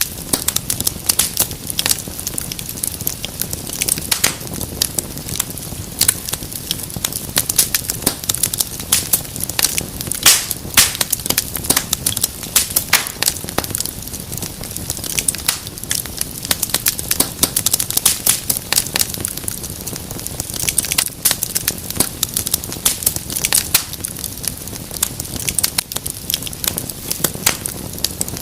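Wood fire crackling in a fireplace: a dense, irregular stream of sharp pops and snaps over a low, steady rumble of flames.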